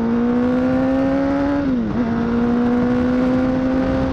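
Honda CBR1000RR (SC57) inline-four engine running under steady throttle, its pitch rising slowly, dipping sharply and briefly about two seconds in, then holding steady, with rushing noise underneath.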